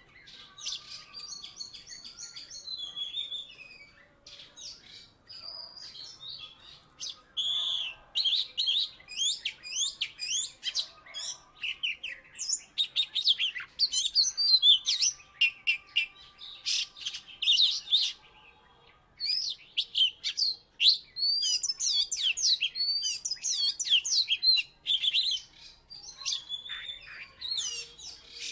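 Oriental magpie-robin (kacer) singing at full voice: a long, varied song of quick whistles, slurred notes and chattering phrases, broken by a short pause a little past halfway.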